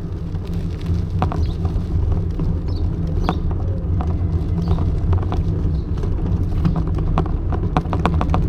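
Bicycle rattling and knocking over a rough, potholed road, picked up through a handlebar camera mount: irregular sharp knocks over a steady low rumble of road vibration and wind, with bunches of knocks about a second in, around three seconds in and near the end.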